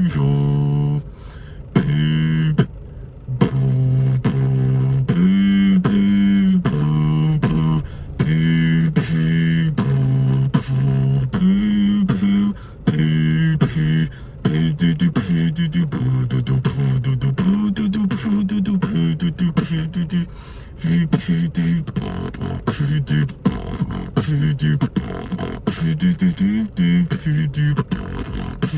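Freestyle beatboxing: a steady stream of hummed bass notes cut into quick rhythmic pulses, with sharp mouth clicks and snares laid over them, pausing briefly a few times.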